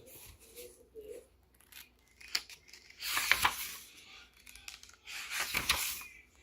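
Paper rustling twice, each time for about a second, like the pages of a picture book being turned, with a few small clicks of handling between.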